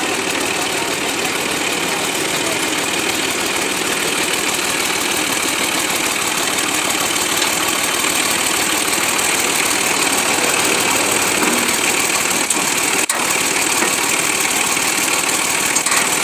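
Freshly repaired tractor engine running steadily at idle.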